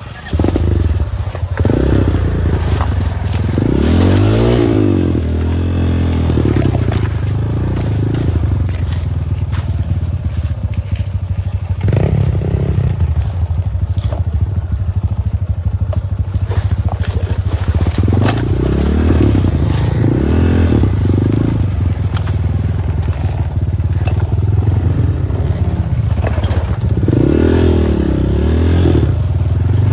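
Off-road dirt bike engine running on a downhill trail, its revs rising and falling in repeated throttle blips. Rattling and scraping from the bike and the rough ground are mixed in.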